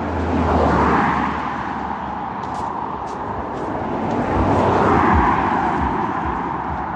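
Cars passing close by on a road, one swelling past about a second in and another about five seconds in. A low bass beat from one car's music, a "boom boom", thumps as the second goes by.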